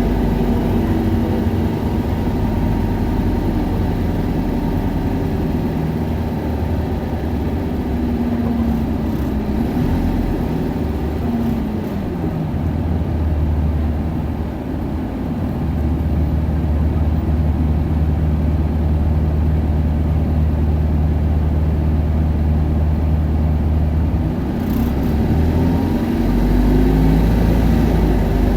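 Diesel engine of an Isuzu Erga 2KG-LV290N2 city bus, heard from inside the cabin while the bus is in service. The engine note falls away about ten seconds in, holds a steady low hum for about ten seconds, then climbs again near the end as the engine revs up.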